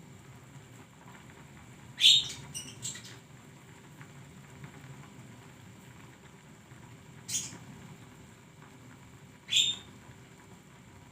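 Bird calls: three sharp rising calls, about two seconds in, near seven seconds and near nine and a half seconds, the first followed by a quick run of short chattering notes.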